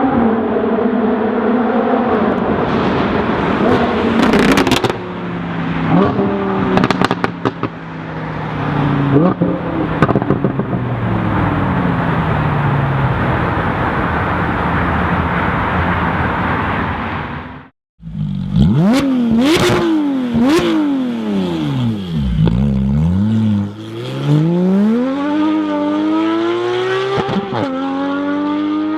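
Lamborghini Huracan's V10 through an Armytrix aftermarket exhaust: running hard with stepped pitch changes and sharp exhaust crackles and pops, then after an abrupt break it is revved repeatedly, the pitch swinging up and down several times and climbing again near the end.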